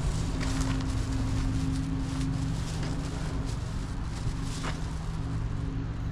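Steady low drone of an idling engine, with a few faint ticks.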